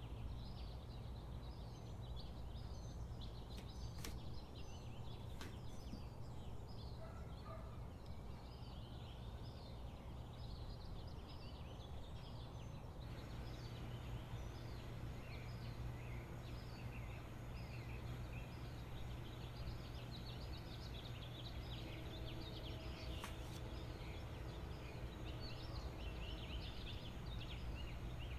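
Many birds calling at once, a dense, continuous chatter of short high calls over a steady low hum, with a few sharp clicks.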